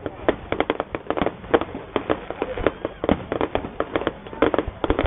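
Fireworks display: aerial shells and low bursts going off in rapid, uneven bangs and crackles, several a second.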